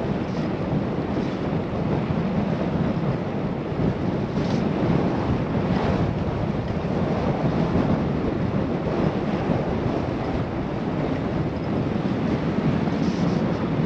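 Steady rushing wind on a bike-mounted GoPro microphone while cycling, with no pitched sound.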